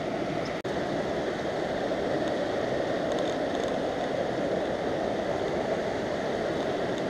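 River water rushing steadily, with a split-second dropout just after the start.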